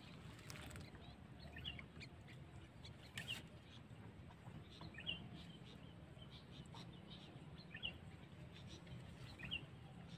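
Faint bird chirps, short rising calls repeated every second or two, over a low steady background rumble.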